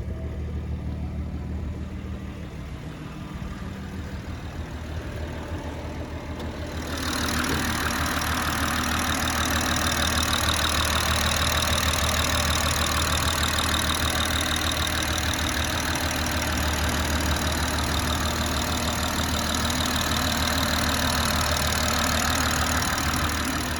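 BMW M140i's turbocharged straight-six, tuned to stage 3, idling steadily. About seven seconds in, a louder steady hiss with a high whine in it joins the idle and stays.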